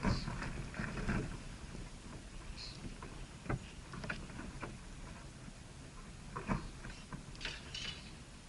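A few brief high bird chirps over scattered knocks and rustling, with a low rumble underneath.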